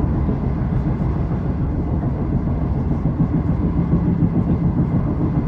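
Passenger train in motion, heard from inside the carriage: a steady low running noise with a faint hum.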